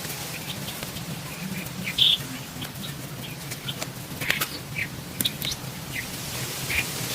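Birds chirping in short, scattered calls over a steady hiss, with occasional sharp ticks.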